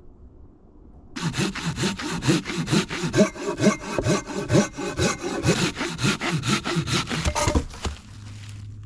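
Hand saw cutting through wood in quick, even back-and-forth strokes, starting about a second in and stopping shortly before the end.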